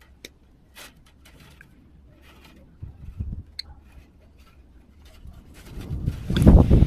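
Light clicks and snips of pliers working wire, then louder rustling and knocking of handling near the end.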